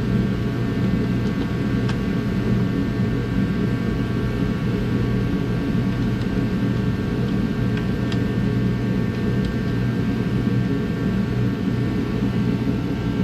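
A machine running steadily: a low hum with several constant, high, whining tones over it.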